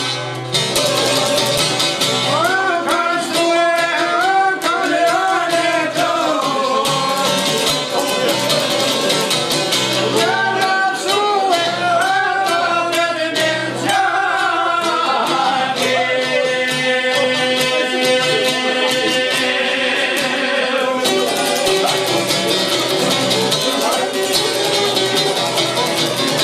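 Albanian folk music on plucked strings led by the çifteli, playing continuously with a wavering melody line over it.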